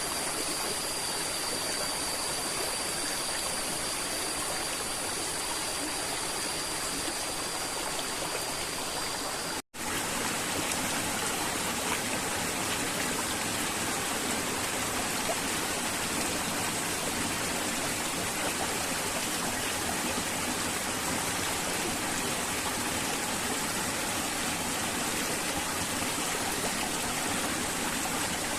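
River water flowing steadily, with a momentary cut to silence about ten seconds in before the flow resumes.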